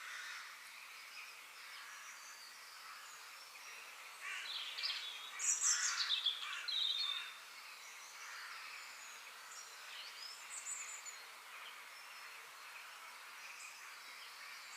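Park birdsong: a steady background of many small chirps, with a nearer bird giving a louder run of chirps and quick falling whistles about four to seven seconds in.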